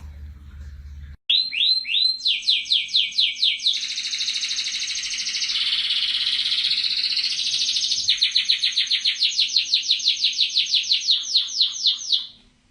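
A bird singing: a long run of quick, high, falling whistled notes that speeds into a fast trill in the middle, slows back to separate notes, and stops shortly before the end.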